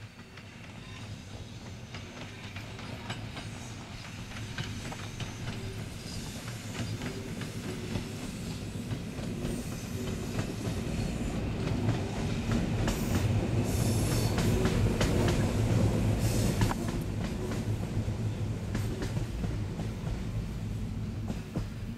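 An EN57 electric multiple unit passing by, its low running hum and wheel noise growing louder as it approaches. The clicks of the wheels over the rail joints are densest where it is loudest, about two-thirds of the way through, and the sound eases slightly as it moves away.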